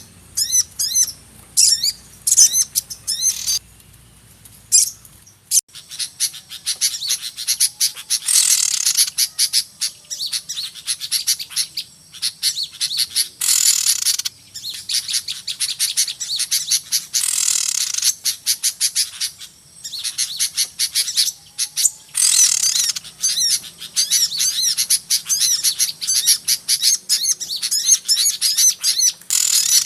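Recorded lure call of small songbirds: a busy, noisy stream of rapid high-pitched chirps and twitters. Harsher chattering bursts come every four to five seconds, and there is a short lull a few seconds in.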